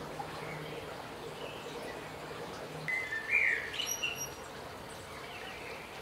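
A small songbird gives a short burst of chirps about three seconds in, the loudest sound here, over steady outdoor background noise with a low hum in the first half.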